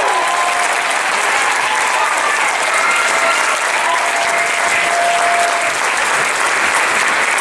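Theatre audience applauding steadily at the end of a musical number, with a few whistles and voices heard through the clapping.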